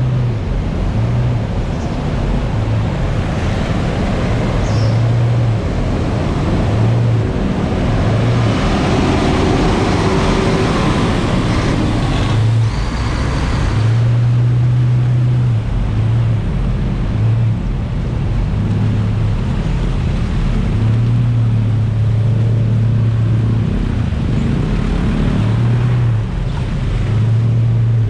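Jet ski running over open water, its engine noise mixed with splashing and wind buffeting the microphone in uneven low gusts.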